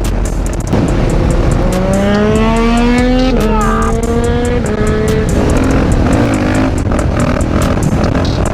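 Motorcycle engine accelerating, its pitch rising for about two seconds, then a gear change and steadier running at lower revs that fades away, under heavy wind rush on the microphone.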